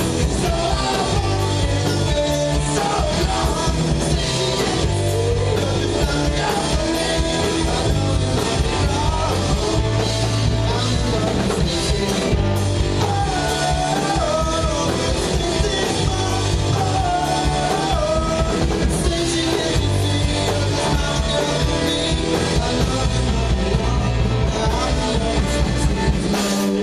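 Live rock band playing a song, with a singing voice over electric guitar, bass and a drum kit.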